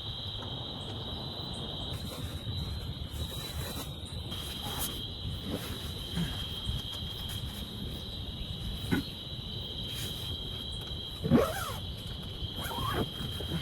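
Insects trilling in a steady high drone, with a few short animal calls that slide up and down in pitch about nine, eleven and thirteen seconds in, the one at eleven seconds the loudest.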